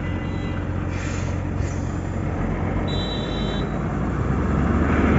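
Heavy diesel engine running steadily at low revs, growing louder near the end. A brief high tone sounds about three seconds in.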